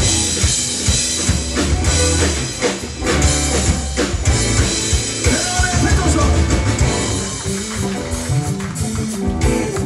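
Live band playing an instrumental passage, with drum kit, bass and guitar.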